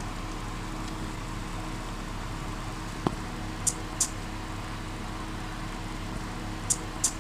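Death's-head hawkmoth squeaking: two short, high squeaks in quick succession about halfway in, and another pair near the end, with a sharp click just before the first pair. A steady low hum runs underneath.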